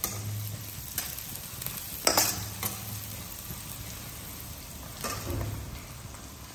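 Onions and green chillies frying in a kadhai on a gas stove, sizzling steadily while a flat metal spatula stirs and scrapes the pan. There are a few sharper scrapes, the loudest about two seconds in.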